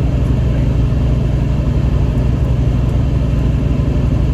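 A steady low rumble, like an engine or vehicle noise.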